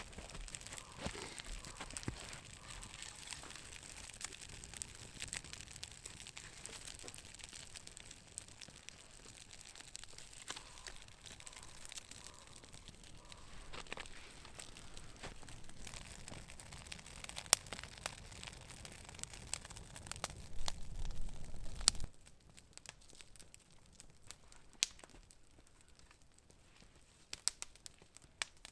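Small campfire of birch-bark shavings and dry spruce twigs crackling as it catches, with many sharp snaps and a few louder pops. About three-quarters of the way through it drops suddenly to a quieter background with only scattered snaps.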